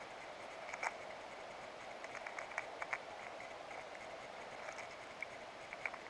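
Faint scattered taps and clicks of a Steller's jay landing on a fallen log and picking up in-shell peanuts, with a cluster of them in the middle, over a steady hiss.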